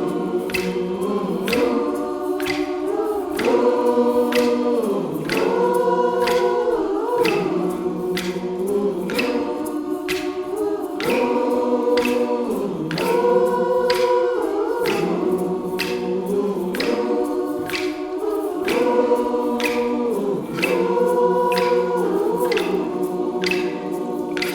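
Community choir singing in harmony, holding sustained chords that change every second or two, with a steady pulse of sharp strokes about twice a second.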